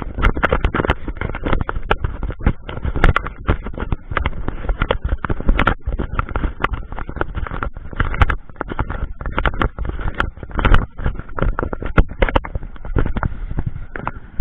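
Rushing water of a flooded creek, a loud churning noise with a heavy low rumble that surges and fades, and frequent sharp crackles throughout.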